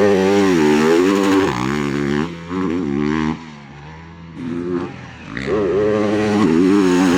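Motocross bike engine revving as it is ridden, its pitch rising and falling with the throttle. It eases off for about a second in the middle, then opens up again loudly.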